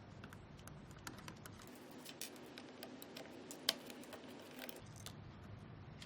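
Faint, scattered clicks and light taps of a screwdriver and small screws being handled as two screws are taken out of a ventilator's DISS or NIST gas inlet connector, with one sharper click a little past halfway.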